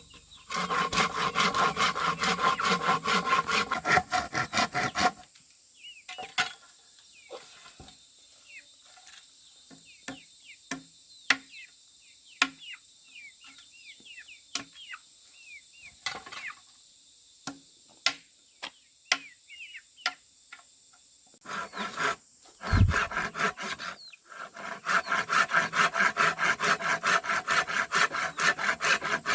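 Hand saw cutting bamboo in quick back-and-forth strokes, stopping after about five seconds. A quieter stretch of scattered light taps and short chirps follows, then a single heavy thump, and the sawing starts again for the last five seconds.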